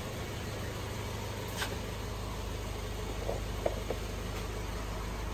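2009 Subaru Forester's 2.5-litre flat-four engine idling steadily, with a few light clicks over it.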